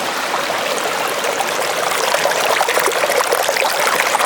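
Waterfall water splashing and running down over rocks in a steady rush, with more splashing in it from about halfway through.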